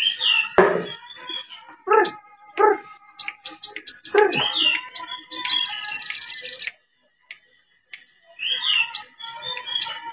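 Sogon bird singing, as played back in a lure recording: a string of varied calls and whistles with a fast run of high repeated notes in the middle. The calling stops for about a second and a half past the middle, then resumes.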